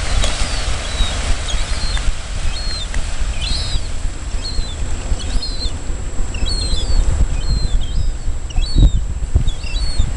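Short, high bird chirps repeating every second or so, over a low, unsteady rumble of wind on the microphone.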